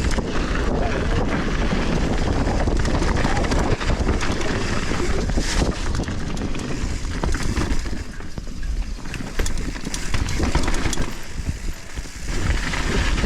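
Wind buffeting the action camera while a mountain bike rolls fast downhill over volcanic dirt, tyres hissing and the bike rattling in frequent sharp clicks over rough ground. The rush eases briefly twice in the second half.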